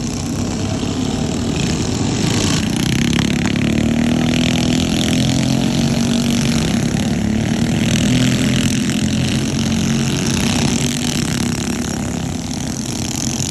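Several racing minibike engines running at high revs as the pack passes, louder from about two seconds in and easing off near the end.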